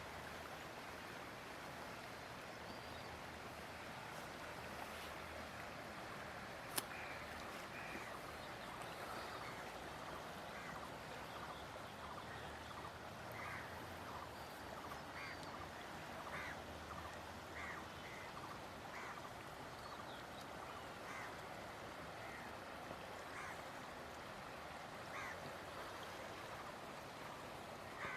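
Faint, steady rush of flowing floodwater, with short bird calls repeating about once a second through the middle, and one sharp click about seven seconds in.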